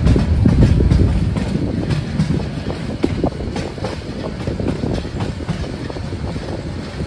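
Turna Express passenger carriages rolling slowly out of the station: a steady low rumble of wheels on the rails with irregular clanks, a little louder in the first second.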